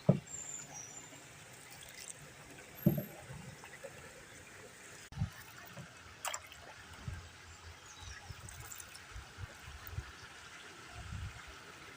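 Canoe paddling on calm water: water trickling and dripping off the paddle blade, with a few soft knocks.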